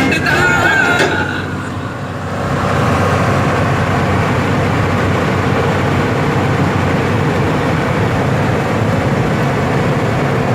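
Tata 3118 truck on the move: steady diesel engine and road noise. Music fades out over the first second or so.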